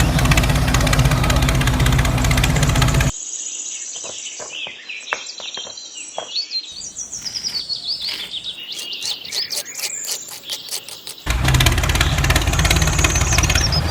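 Birds chirping and calling, many short high chirps and sweeping notes over about eight seconds. A loud steady sound before and after cuts off about three seconds in and returns near the end.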